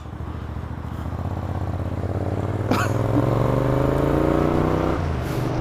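Motorcycle fitted with a Vance & Hines exhaust accelerating, its engine pitch climbing steadily for several seconds, then falling suddenly about five seconds in. A single short click sounds partway through.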